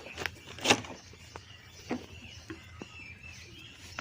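A few short clicks and knocks of washing-machine parts being handled, the loudest a little under a second in.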